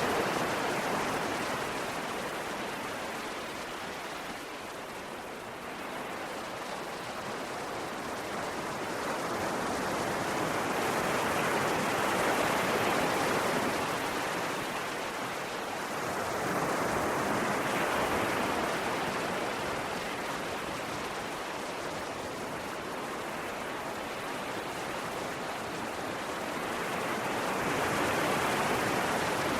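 Ocean waves breaking and washing up on a shore, a continuous hiss of surf that swells and ebbs slowly, with larger waves about 12, 18 and 28 seconds in.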